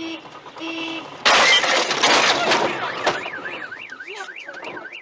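Two short car-horn honks, then a loud collision crash lasting nearly two seconds, after which a car alarm starts wailing, its pitch sweeping up and down several times a second.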